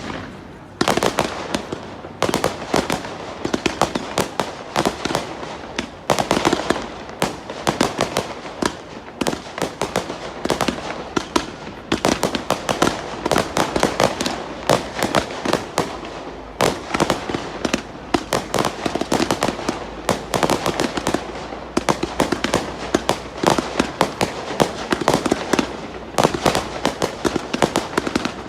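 Fireworks display going off in a dense, continuous barrage of rapid cracks and bangs, many reports overlapping each second.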